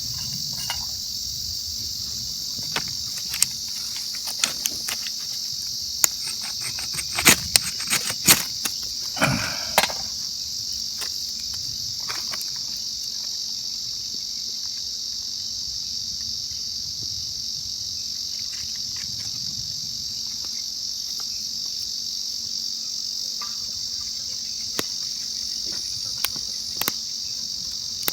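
Steady, high-pitched chorus of crickets, with scattered sharp clicks and knocks, most of them between about 3 and 10 seconds in.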